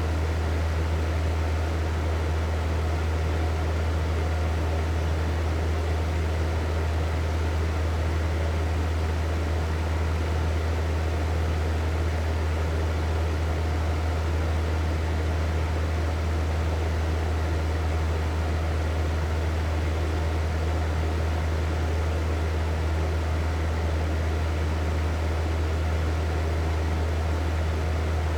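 Hair dryer running steadily: a constant rush of blown air over a strong, deep motor hum, with no change in speed.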